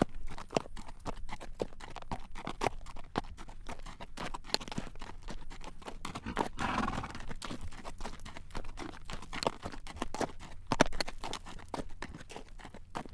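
A horse's hooves clip-clopping at a walk on a road as it draws a carriage, a steady run of sharp clacks, with a brief rushing noise about six to seven seconds in.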